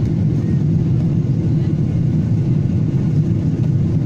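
Steady low rumble of a passenger airliner's engines and airflow, heard from inside the cabin.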